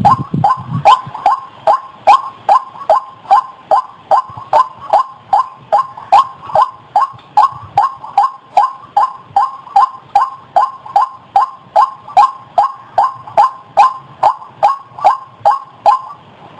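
White-breasted waterhen calling: a long, even series of short, harsh, down-slurred notes repeated about two and a half times a second.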